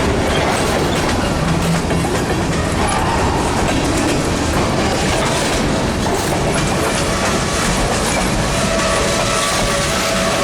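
Freight train rolling past, its wheels clattering over the rail joints in a steady, loud rumble.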